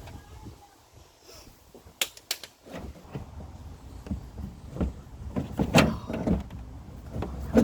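Plastic clicks and knocks as a full windshield washer fluid reservoir is worked loose from below: two sharp clicks about two seconds in, then a run of irregular clunks and scrapes.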